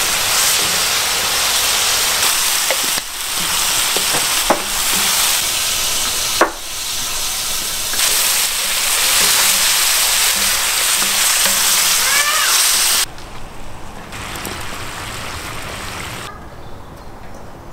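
Meat and chopped tomatoes sizzling loudly in a wide steel disc pan over a fire as liquid is poured in and boils off as steam. The sound drops abruptly about 13 seconds in to a much quieter sizzle as the sauce simmers.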